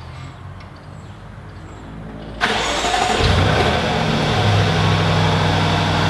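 An engine starts about two and a half seconds in, catches and settles into a steady run.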